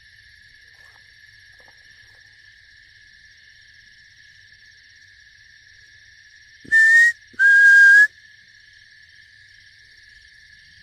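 Two loud, short whistle blasts about half a second apart, about two thirds of the way in. The second is slightly lower in pitch and longer.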